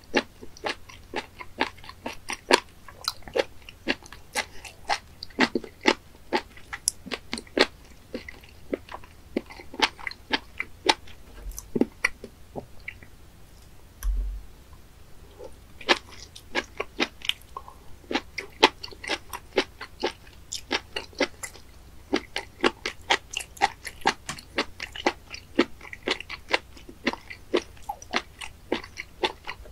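Close-miked chewing of raw spoon worm sashimi: rapid crisp crunching and wet clicking in the mouth. Around the middle the chewing pauses for a few seconds, with one low thump, then carries on.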